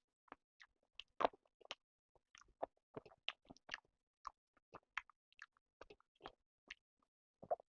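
Close-miked mouth sounds of eating chicken and rice: irregular, short wet clicks and crunches of chewing and biting, a few each second, with the loudest about a second in.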